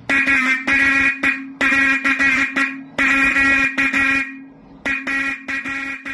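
Bosch electric car horn sounding in a string of short honks, one steady buzzy tone, blown on test after repair.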